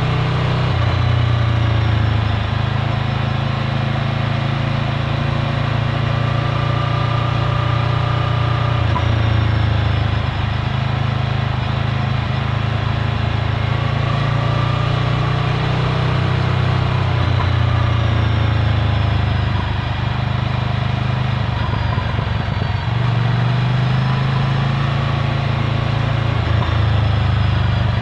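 Ducati Scrambler Full Throttle's L-twin engine running through a Termignoni exhaust while riding. The engine note dips and picks up again a few times, around ten seconds in and again near twenty seconds, as the throttle is eased and reopened.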